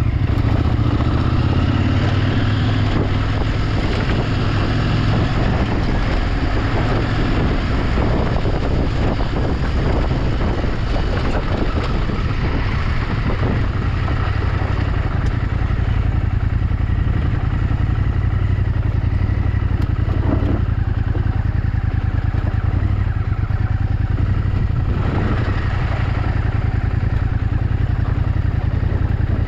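Motorcycle engine running steadily while the bike is ridden, loud and constant throughout.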